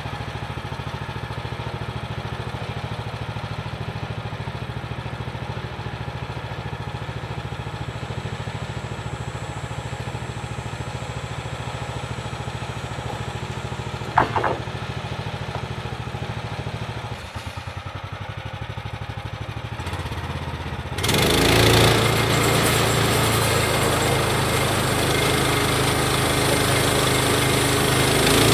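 Sawmill's gas engine idling steadily, with one brief high squeak partway through; about three-quarters of the way in it throttles up and runs much louder.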